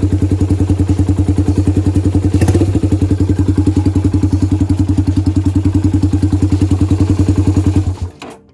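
Yamaha Virago 250's V-twin engine idling with an even beat of about ten pulses a second, with a single thump about two and a half seconds in; the sound cuts off suddenly near the end.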